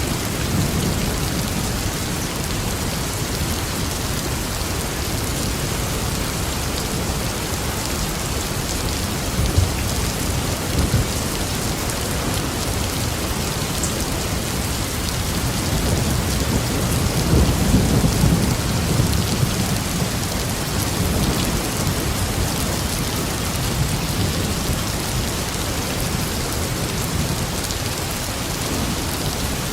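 Steady rain falling in a thunderstorm, with low thunder rumbling beneath it that swells a little past halfway through.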